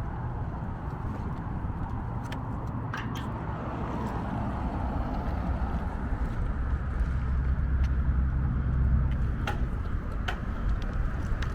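Steady low rumble of a bicycle ride, swelling about halfway through, with a few scattered sharp clicks and rattles.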